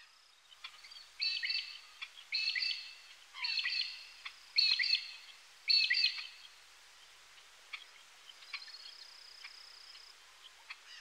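Birds calling outdoors: five short chirping phrases a little over a second apart, over a faint steady hiss of natural ambience. A thin, steady high tone is heard near the start and again toward the end.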